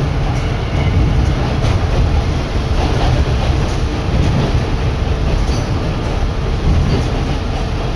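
Steady running noise heard from inside a Kominato Railway diesel railcar on the move: a low rumble of engine and wheels, with wind blowing in and a few faint clicks from the rails.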